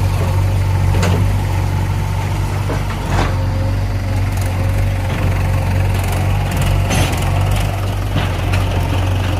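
Heavy diesel engine running steadily at a low drone, with a few sharp knocks spread through it.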